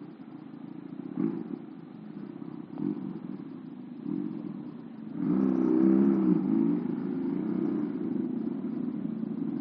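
Motorcycle engine running on the move, its note louder and stronger from about five seconds in.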